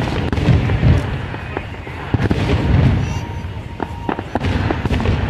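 Aerial fireworks going off in quick succession: a run of sharp bangs and crackles over a continuous low rumble of booms.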